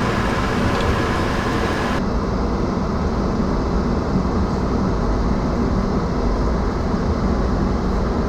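Steady low rumble of cabin noise inside an Airbus A220 after landing, with the higher hiss dropping away about two seconds in.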